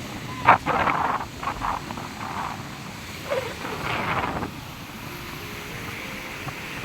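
Steady hiss of wind and surf on the microphone at the beach, with a sharp knock about half a second in and several short rushes of noise over the following four seconds before it settles back to an even hiss.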